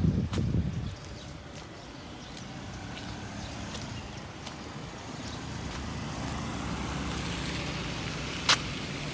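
Traffic on a rain-soaked street. A vehicle rumbles low in the first second, then a steady hiss of wet road and rain grows louder over the last few seconds. One sharp click comes near the end.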